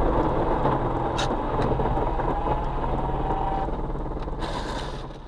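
Car engine running steadily inside the cabin just after a crash, with a single sharp knock about a second in; the sound fades near the end.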